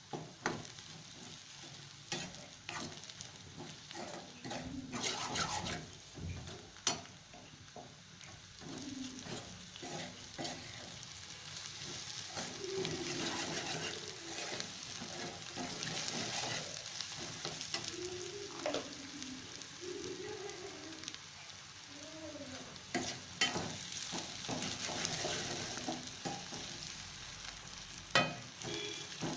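Onions, green chillies and ginger-garlic paste sizzling in hot oil while a spoon stirs them, clicking and scraping against the pan again and again. This is the sauté that cooks off the paste's raw smell.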